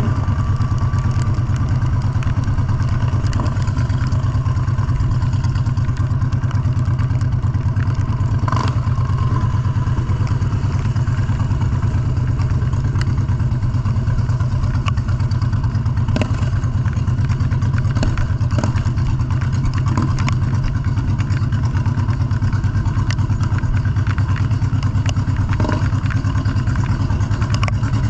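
Motorcycle engine running steadily at an even pace, with a few short clicks and knocks scattered through it.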